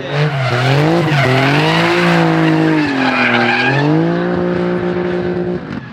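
A drift car's engine revving hard through a drift, its pitch rising and falling as the throttle is worked, with tyres squealing and skidding. The sound cuts off abruptly near the end.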